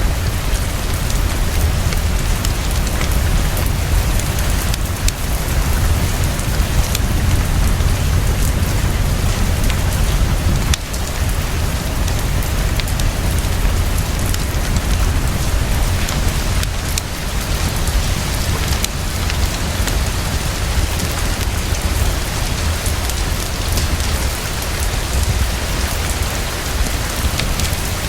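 Heavy, fast, steady rainfall pouring down, with a steady low rumble underneath and scattered sharp little ticks.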